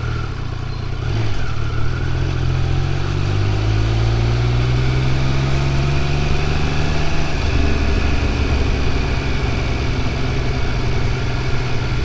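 Triumph Speed Triple 1200 RR's inline three-cylinder engine pulling on the move, its pitch rising steadily for several seconds, then dropping about seven and a half seconds in and running on at a steady note.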